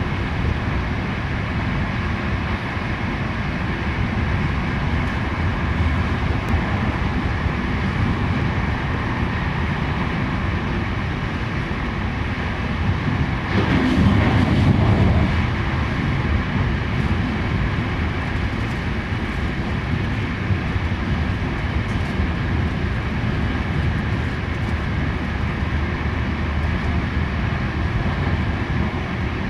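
Passenger train in motion, heard from inside a coach's side corridor: a steady rumble of wheels on rails and running gear. The noise swells louder for a couple of seconds about halfway through.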